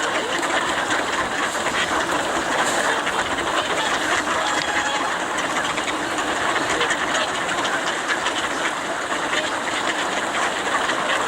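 A dense din of a flock of swans and other waterfowl crowding at feeding time: many overlapping calls and splashes, with no break.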